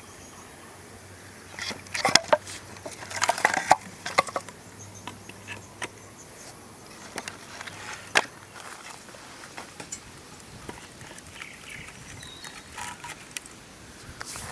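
Scattered clicks, knocks and rustles of handling, bunched in the first few seconds with one sharp click about eight seconds in. Under them runs a steady high insect hiss.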